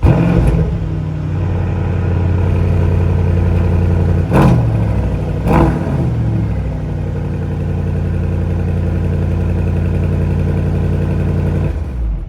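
Mercedes-AMG S63's 4.0-litre twin-turbo V8 running at a steady idle, blipped twice about four and five and a half seconds in, each rev falling quickly back to idle; the sound cuts off near the end.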